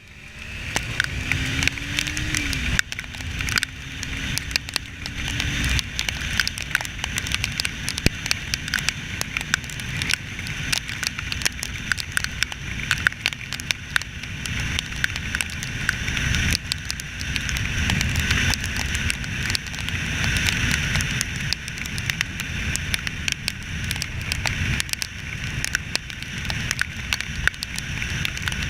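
Onboard audio of a motorcycle ride in the rain: wind buffeting the camera's microphone with a low rumble and hiss, and dense crackling of raindrops striking it. A faint engine note rises and levels off in the first few seconds.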